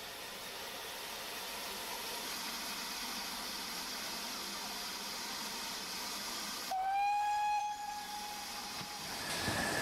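Steam locomotive hissing steadily, then one whistle blast about a second long, its pitch bending up slightly at the start, about two-thirds of the way through. A passing train's running noise begins to build near the end.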